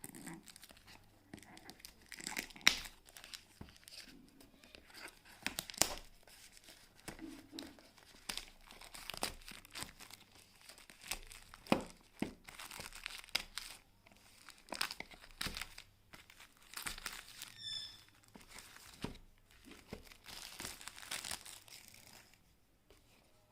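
Outer cover being torn and pulled off a smartwatch box: irregular crinkling, crackling and tearing of packaging, with small clicks.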